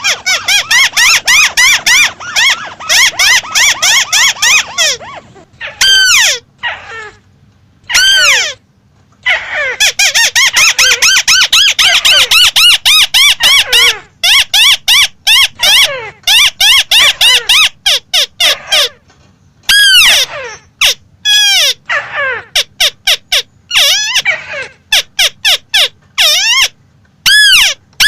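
Crake calling loudly: long runs of quick, sharp repeated notes, several runs sweeping steeply down in pitch, broken by short pauses.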